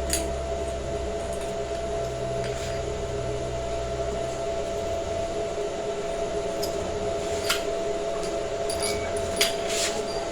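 Steady machine hum in two even tones, with a low rumble that fades out about halfway through and a few short clicks and knocks.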